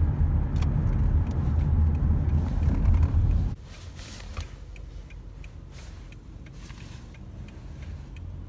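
Low rumble of a car heard from inside the cabin, cutting off suddenly about three and a half seconds in, leaving a much quieter cabin with a few faint clicks.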